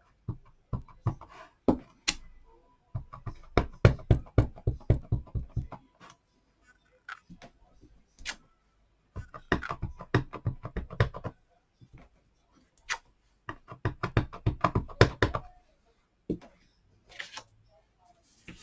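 A photopolymer stamp on its block tapped rapidly again and again on an ink pad in three runs of quick knocks, with single knocks between as it is pressed down onto cardstock.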